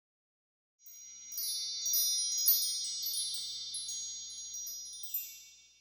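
High, shimmering chimes, many strikes overlapping in a flurry, starting about a second in and slowly fading out near the end.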